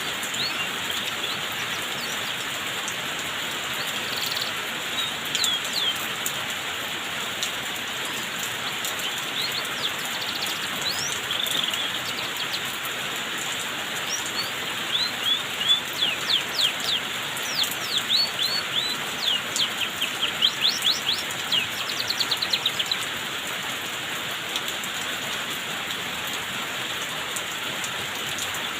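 Steady hiss of water falling like rain, as in a rain bath given to a pet canary after its moult. Through the middle a canary gives a run of quick high chirps, ending in a fast trill.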